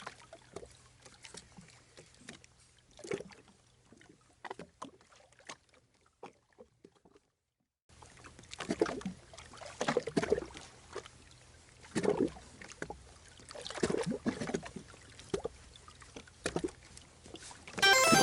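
Water slapping and splashing against the hull of a jet ski drifting on the sea, in irregular splashes that drop out briefly in the middle and then come back stronger, about one every second or two.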